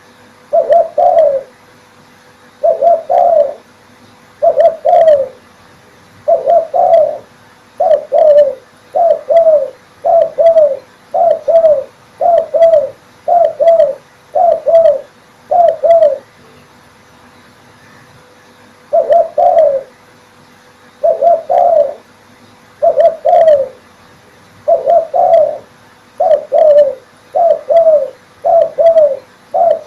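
Male spotted dove (derkuku) cooing loudly, short phrases of two or three falling coos repeated about once a second, with one pause of about three seconds midway.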